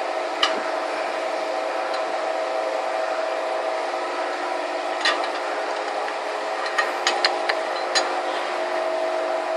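Motor of a QJ-120 single-blade paper corner rounding machine running with a steady hum, with sharp clicks now and then: a single one about half a second in, another about five seconds in, and a quick run of four or five near the end.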